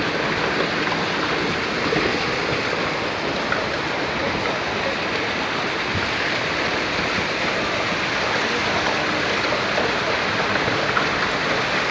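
Steady rushing and splashing of floodwater churned up by passenger coaches' wheels and bogies rolling through a waterlogged track.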